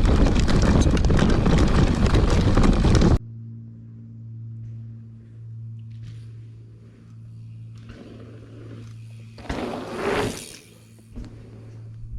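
Loud wind rush and rumble on the microphone while riding a mountain bike, cutting off suddenly about three seconds in. After that there is a quieter steady low hum with a few short swells of noise, the biggest a couple of seconds before the end.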